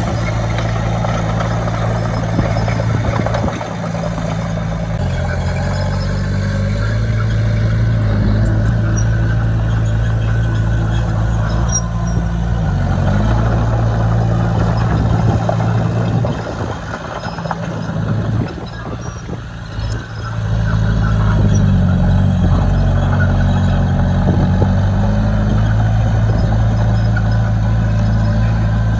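Heavy diesel engine of earthmoving machinery running under load with a steady drone. Its pitch dips briefly about halfway through, then it drops back and runs quieter for a few seconds before picking up again.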